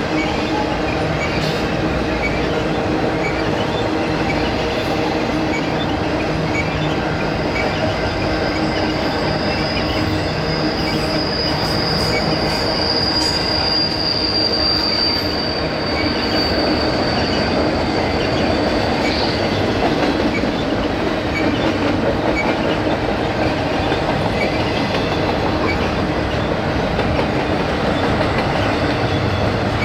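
Double-stack container freight train rolling past, with a steady rumble of wheels on rail. A high, thin wheel squeal comes in about eight seconds in and holds for roughly ten seconds before fading.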